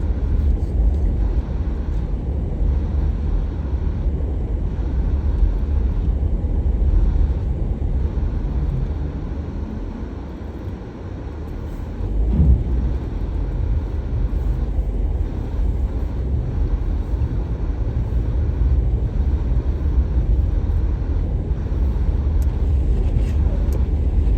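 Car driving: a steady low road and engine rumble that eases off about ten seconds in, then picks up again after a brief louder sound.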